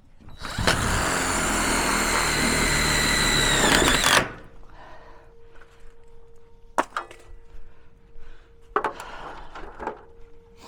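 Power drill driving a screw for about three and a half seconds, its motor note sagging as the screw seats. After it comes a faint steady tone from a distant fire whistle, with a few clicks and knocks.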